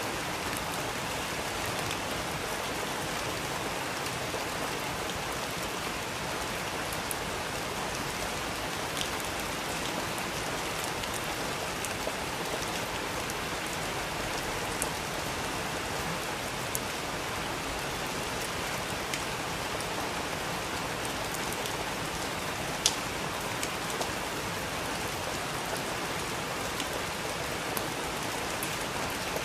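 Steady rain falling, an even hiss with scattered individual drops ticking against a hard surface, one sharper drop about 23 seconds in.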